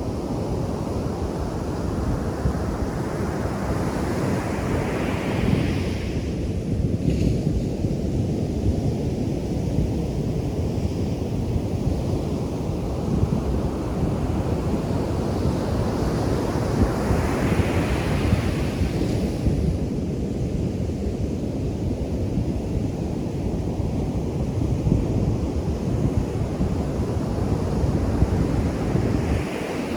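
Ocean surf on a beach: a constant low rumble of breaking water, with waves swelling into a hissing crash about five seconds in, again around eighteen seconds, and once more near the end.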